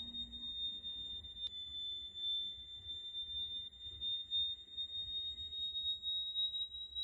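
A steady, high-pitched pure tone, held without a break and drifting slightly upward in pitch, with a single faint click about a second and a half in.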